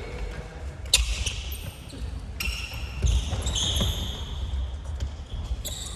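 Futsal ball being kicked and bouncing on a gym floor, with a sharp kick about a second in, and sneakers squeaking briefly on the court several times.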